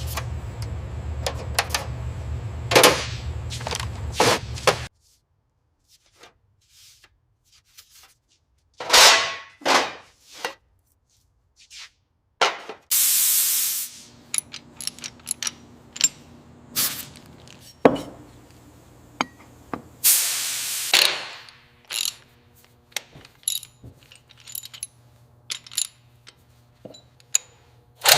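A run of workshop sounds: a steady low hum with clicking for the first few seconds that cuts off abruptly, then scattered knocks and clicks, and several short hissing bursts.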